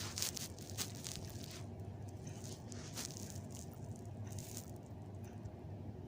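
A cat pawing and tussling with a cloth doll: scattered soft rustles and scuffs, over a steady low hum.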